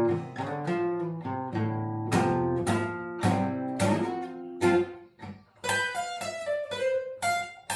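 Acoustic guitar playing: plucked and strummed chords ring in a low-to-middle register. After a brief pause about five seconds in, a run of higher, brighter picked notes follows.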